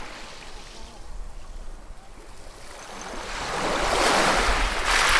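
Ocean waves: a quieter lull of surf, then a wave builds from about three seconds in and washes in loudly near the end.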